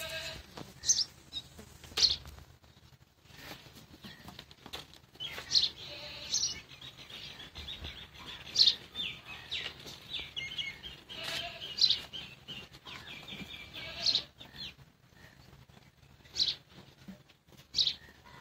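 Small birds chirping, with short, sharp high calls every second or two and a run of rapid chirping in the middle.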